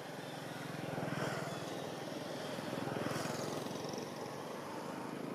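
A motor vehicle engine running, swelling louder about a second in and again around three seconds in.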